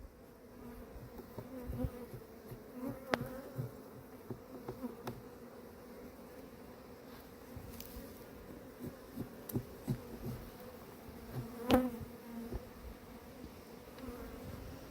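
Honeybees buzzing around an open hive, a steady hum, with scattered light taps and two sharp clicks, about three seconds in and about twelve seconds in.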